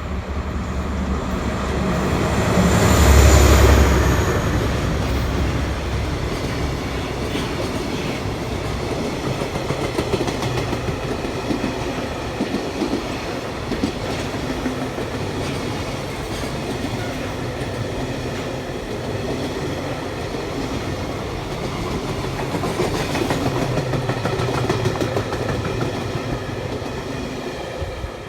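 Train passing close by, wheels clicking over the rail joints. The rolling noise is loudest about three seconds in, runs on steadily, and swells again near the end before fading.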